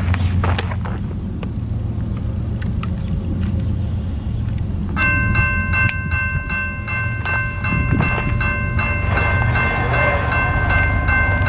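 Freight train's diesel locomotives rumbling steadily. About five seconds in, a held chord of several high tones starts and carries on, with an even ticking running through it.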